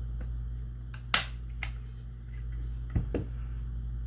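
A few sharp metal clicks and taps as the shotgun's trigger plate is fitted back onto the action. The loudest click comes about a second in and a small cluster near the end, over a steady low hum.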